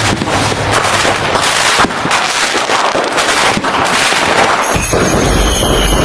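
Fireworks crackling in a dense, rapid string of sharp pops, like a firecracker barrage. Near the end the crackle gives way to a deep rumble with high, thin whistling tones over it.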